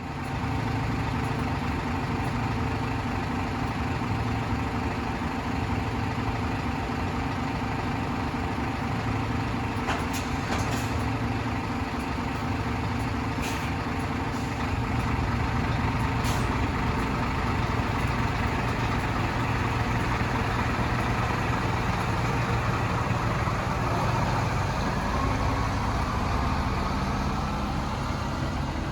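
Scania Astromega double-decker bus engine running steadily, with a few short hisses of air about a third and halfway through, and the engine note rising near the end.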